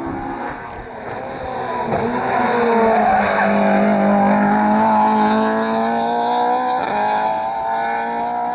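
Rally car engine accelerating hard through the gears. Its pitch climbs and drops sharply at each gear change, about half a second, two seconds and seven seconds in, and it grows loud as the car approaches, loudest in the middle.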